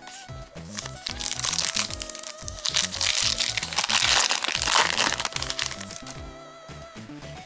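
Foil booster-pack wrapper crinkling and tearing open over background music, loudest in the middle.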